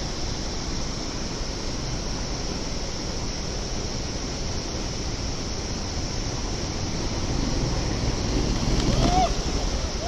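Rushing river water, a steady wash of noise, with a short call from a person about nine seconds in.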